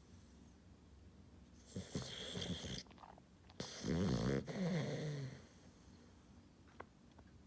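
A six-month-old puppy snoring in her sleep: two loud snores, the first about a second long and raspy, the second longer and louder, with a buzzing pitch that drops as it ends.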